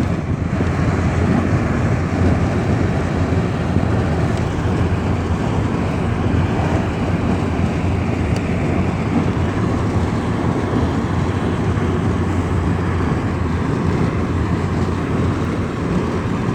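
Lada Kalina 2 estate driving on a wet road in rain: a steady mix of tyre, road and engine noise that holds an even level throughout, then cuts off suddenly at the end.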